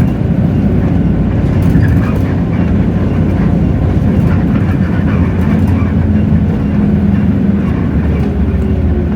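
Hino J08E-VN straight-six diesel engine of a city bus running under way, heard from inside the bus as a steady low rumble with light rattles. Near the end an engine tone falls slowly in pitch as the revs drop.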